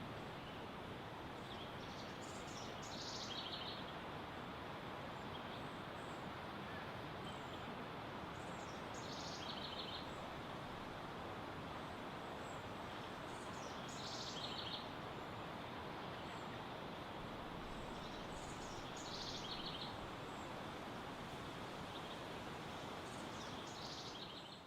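Steady rush of running water, with a bird repeating a short, quick-noted song phrase about every five seconds.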